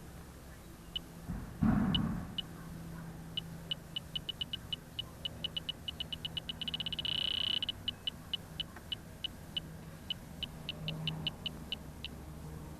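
Electronic refrigerant leak detector beeping: high short beeps speed up until they merge into a steady tone for about a second, then slow down again, signalling that it is sensing leaking refrigerant. A brief knock or rustle comes about two seconds in, over a low steady hum.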